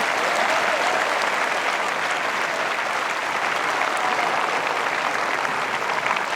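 Tennis crowd applauding steadily at the end of the match.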